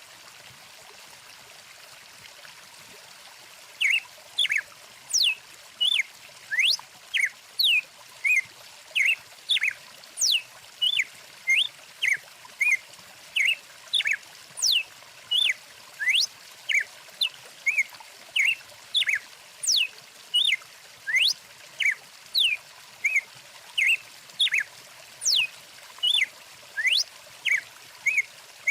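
A stream running steadily, with a songbird starting up about four seconds in and calling a long, quick series of short whistled notes, rising and falling sweeps, louder than the water.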